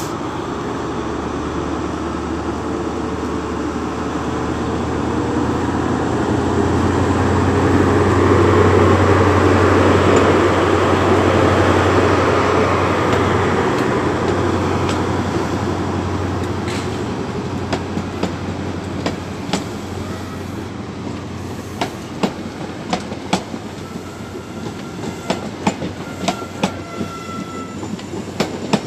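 High Speed Train led by a Class 43 diesel power car running into the platform: the engine hum builds, peaks as the power car passes about ten seconds in, then fades. Then the Mark 3 coaches' wheels clack over the rail joints, the clacks coming further apart as the train slows, with a brief squeal near the end.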